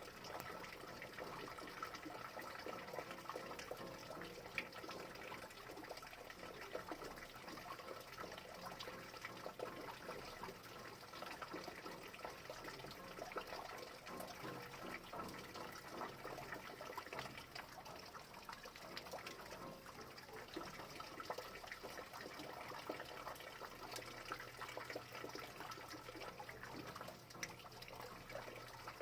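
Steady rain, a continuous wash of water with many small drop ticks and a trickling quality.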